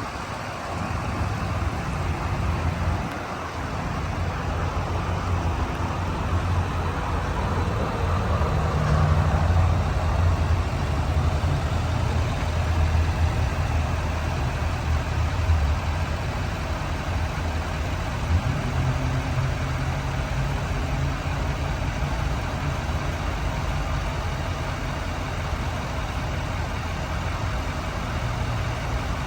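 Duramax 6.6L turbo-diesel V8 of a Chevrolet Silverado 3500HD pickup running steadily at idle.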